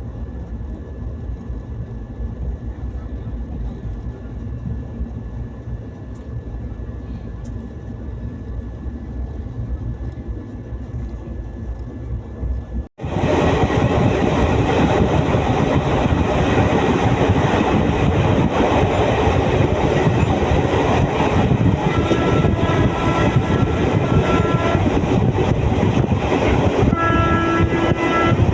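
Train running on the rails: a low steady rumble that cuts abruptly to much louder rail noise with wheel clatter about halfway through. A train horn sounds twice in the second half, the second blast near the end.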